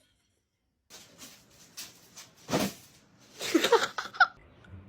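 A cat meowing in a few short rising-and-falling calls in the second half, after some scattered rustling.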